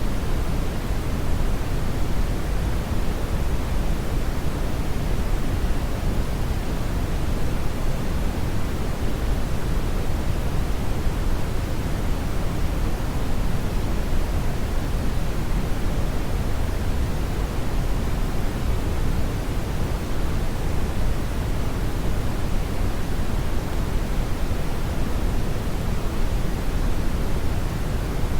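Steady synthetic brown noise: a deep, even rumbling hiss with most of its energy in the bass, unchanging throughout.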